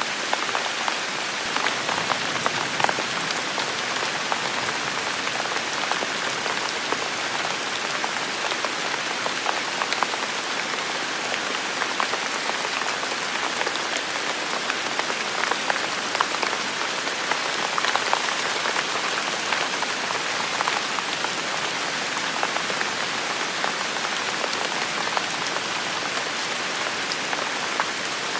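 Heavy rain falling steadily in a forest, a dense even hiss with many separate drops ticking on surfaces close by.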